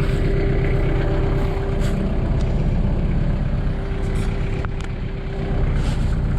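Engine of the machine moving the truck bed running steadily, a loud low rumble with a steady hum; it eases off slightly about five seconds in, then picks back up.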